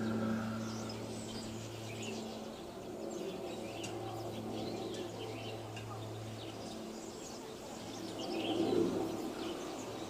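Small birds chirping and twittering in short, repeated high calls over a steady low hum. The hum drops away about two-thirds of the way through, and a louder low sound swells near the end.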